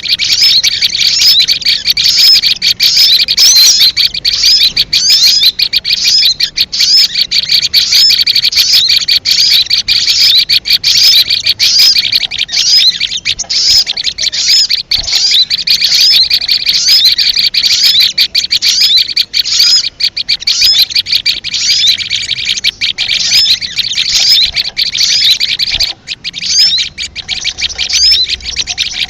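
Sogon bird lure call: dense, unbroken high-pitched chirping and twittering made of rapid short notes that swoop up and down. It is played to attract sogon birds for trapping.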